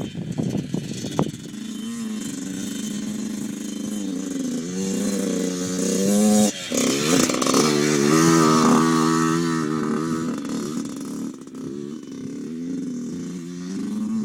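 Small dirt bike engine revving hard. Its pitch climbs, cuts off abruptly about halfway through, then comes back at full revs, the loudest stretch, before easing off near the end.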